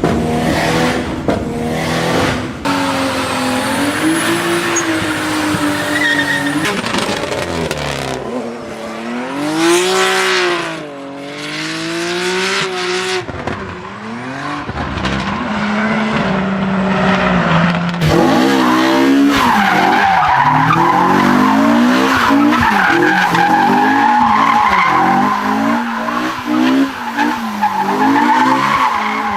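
Tuned car engines revving hard, rising and falling in pitch, changing abruptly several times. In the last third, tyres squeal steadily under the engine as a car slides in a drift.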